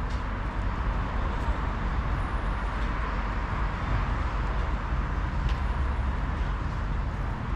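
Steady background hum of city traffic, an even rumbling wash with no single event standing out.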